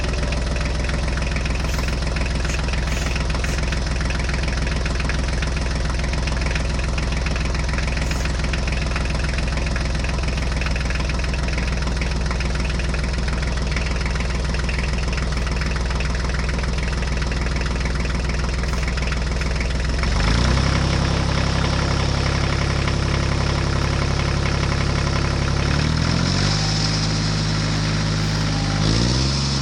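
Vehicle engine idling steadily. About two-thirds of the way in its pitch jumps up, and it shifts again twice near the end.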